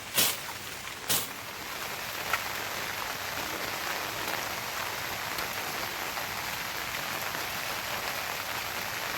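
Steady rain falling, an even hiss, with two sharp taps in the first second or so.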